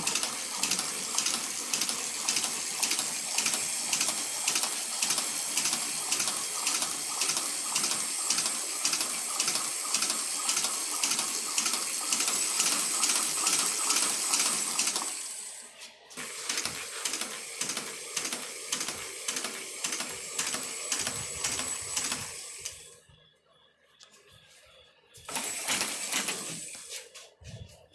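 Freshly rebuilt Chinese shoe patcher, a hand-cranked leather sewing machine, stitching with an even, rapid clatter of its needle mechanism. It breaks off briefly about halfway through, starts again with a slower beat, stops for a couple of seconds, and runs briefly once more near the end.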